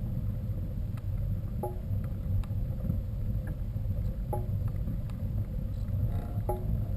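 Mountain bike riding over a rough track: a steady low rumble of wind and rolling noise with scattered sharp clicks and brief metallic rattles from the bike.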